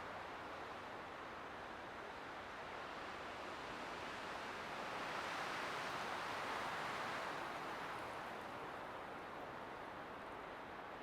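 Light wind blowing steadily, with one gust swelling a little louder about halfway through and then easing off.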